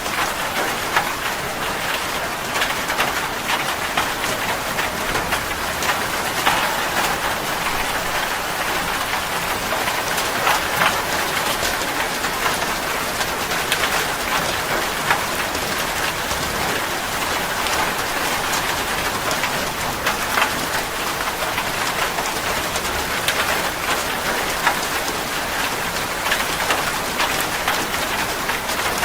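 Steady rain falling hard, a dense even hiss with many single drops ticking sharply through it.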